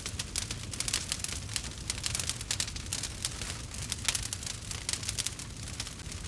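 Wood fire crackling in a fireplace: dense, irregular sharp pops and snaps over a low, steady rumble.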